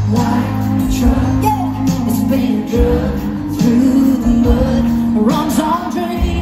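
Live country band playing loudly over the PA, with held bass and guitar notes and steady drum hits.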